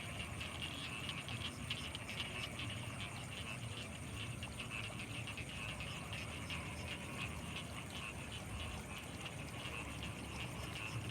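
Dense night chorus of frogs in flooded rice paddies: many overlapping croaks and trills running together without a break, with a steady, thin high-pitched whine above them and a low rumble underneath.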